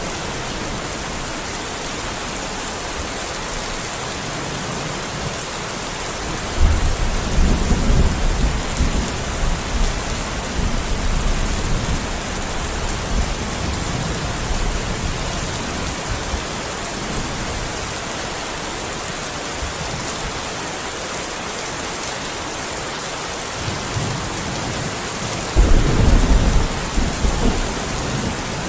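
Steady heavy rain hissing, with two rolls of thunder: the first rumbles in suddenly about six seconds in and fades over several seconds, and the second comes near the end.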